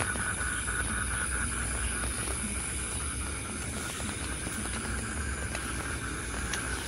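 Steady rain, an even hiss with scattered faint ticks of drops, over a low rumble and a steady high-pitched hum.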